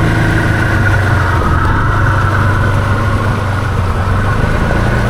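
Can-Am 700 XMR ATV engine running at a steady pitch under load in deep mud, with a steady higher whine over the engine note.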